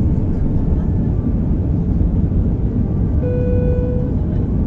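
Airbus A320 jet engines giving a steady deep rumble at takeoff power, with a short steady tone about three seconds in.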